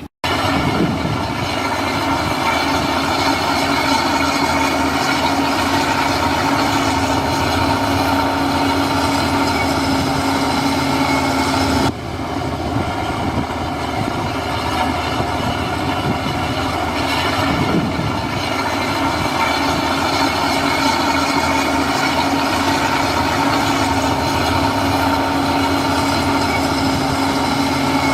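Heavy diesel earthmoving machinery running steadily under load, with a steady whine over the engine noise. The sound breaks off abruptly about twelve seconds in and resumes at once.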